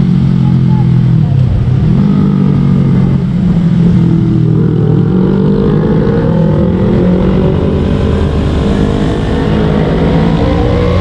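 Motorcycle engine running under way: its pitch dips briefly about a second and a half in, then rises gradually as it accelerates, over a steady rush of noise.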